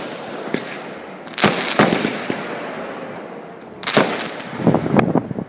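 Fireworks going off: sharp bangs about a second and a half in and again around four seconds, with a quick run of crackling pops near the end over a steady hiss.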